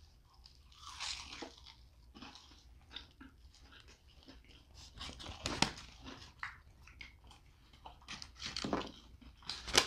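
Biting into and chewing a beer-battered fish sandwich and curly fries: scattered soft crunches and mouth sounds, with a sharper crunch about halfway through and another near the end.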